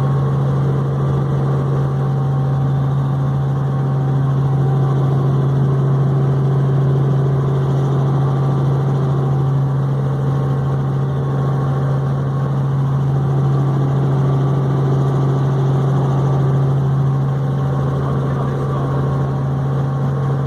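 Helicopter running with a loud, steady low drone that holds level without change.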